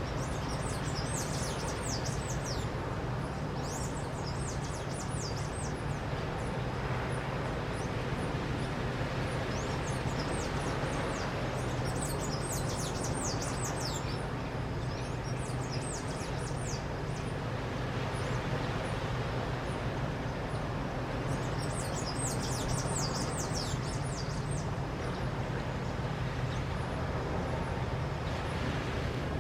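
Palm tanager singing: several bursts of rapid, high, squeaky notes that slide downward, with pauses of a few seconds between them. Under them runs a steady low hum.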